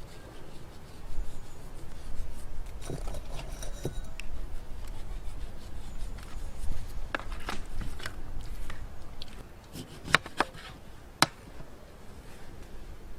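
Scattered knocks, clicks and scraping from something being handled, over a low steady rumble.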